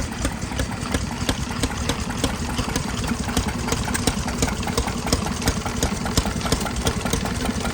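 Small vintage stationary engine running steadily as it drives a water pump, with a fast, regular mechanical clatter of knocks and clicks.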